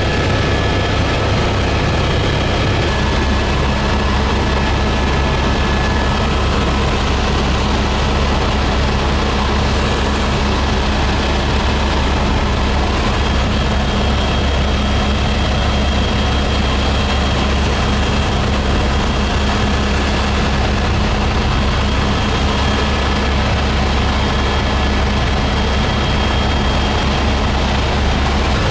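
Helicopter running steadily: a loud, even engine and rotor drone with a faint high whine. A low tone joins about three seconds in.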